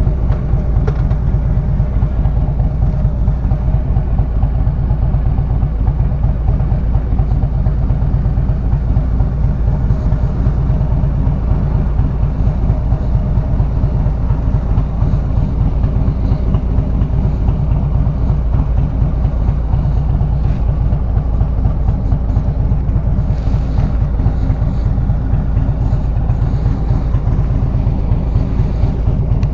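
Motorcycle engine and exhaust running steadily at cruising speed during a ride, a loud, even, low-pitched drone.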